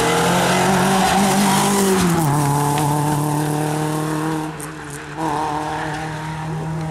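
Renault Clio rally car's engine at high revs as it comes through a bend and drives away, its pitch dropping about two seconds in, then easing off briefly and picking up again near the end.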